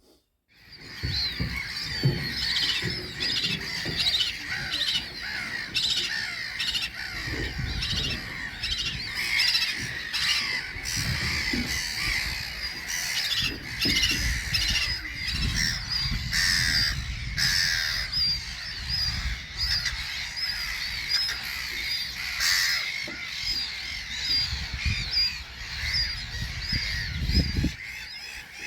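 A dense chorus of many birds squawking and calling, with short harsh calls overlapping without pause, starting about half a second in, over a low uneven rumble.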